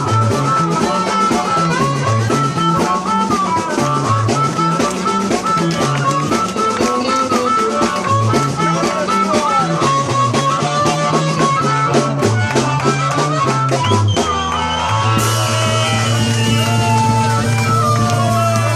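Live blues band playing: guitar and drum kit over a bass line stepping from note to note. About fifteen seconds in the line stops and the band holds a long final chord under a bright wash.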